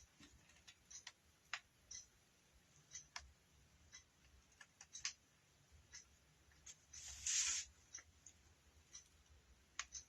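Faint, scattered small clicks and taps from hands working craft materials at a table, with a brief rustle about seven seconds in that is the loudest sound.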